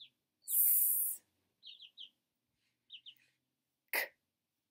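A small bird chirping in quick sets of two or three short, falling chirps. Around them a woman voices a drawn-out 'sss' hiss about half a second in and a short, sharp 'k' near the end.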